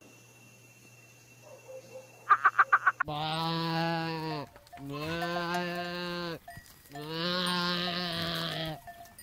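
A toucan gives a short, rapid rattling call of about eight pulses, then a goat bleats three times, each bleat long and drawn out.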